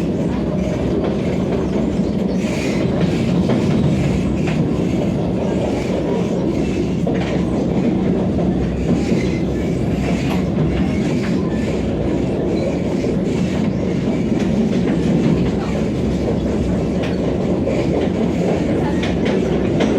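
Vande Bharat express train rolling on the rails: a steady rumble with wheels clicking over the rail joints.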